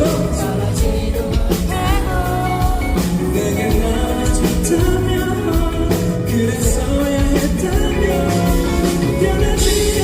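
Live pop-rock band performance: a male singer's voice over drums, bass and guitar, played loud and steady.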